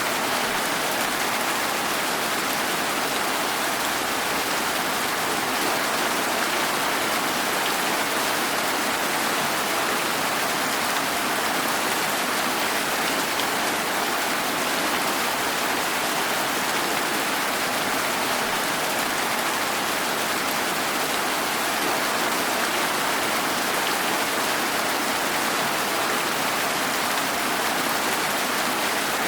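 Steady rain falling: an even, unbroken hiss of many drops, with no single drops or thunder standing out.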